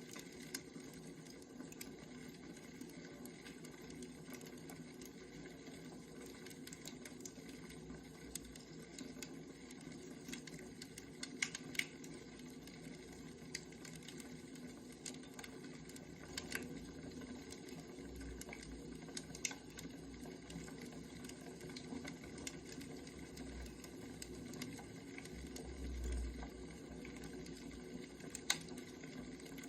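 Firewood burning with a soft steady crackle and scattered sharp pops, plus a couple of low rumbles about two-thirds of the way through and near the end.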